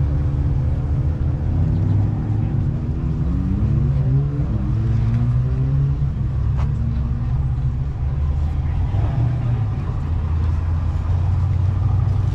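Car engine running with a deep rumble. Its pitch rises and falls for a few seconds about two seconds in, as the car moves off or passes.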